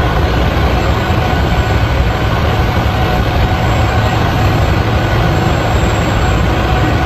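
Heavy vehicle engine running steadily, a deep even rumble with a faint constant whine over it.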